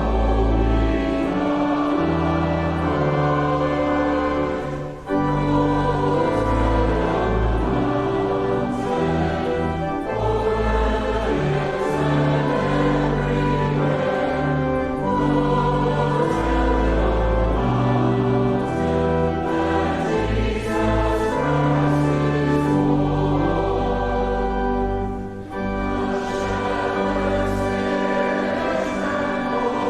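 Church congregation singing a closing hymn with instrumental accompaniment, in sustained phrases with short pauses between lines about 5 seconds in and again near 25 seconds.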